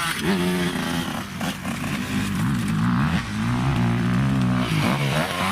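Dirt bike engine revving, its pitch rising and falling several times as the throttle is worked.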